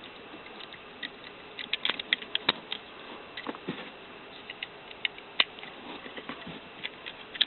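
Irregular small plastic clicks and taps of a wiring-harness connector being handled as its terminal lock is pushed back into place, with the sharpest click about five seconds in.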